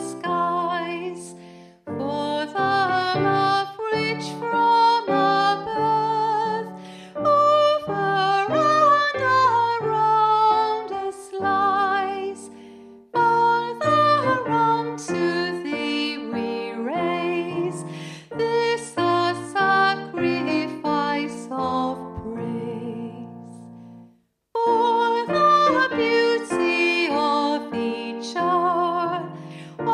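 Gentle, slow music: a woman singing with vibrato over instrumental accompaniment, in phrases with short breaks and a brief pause about 24 seconds in.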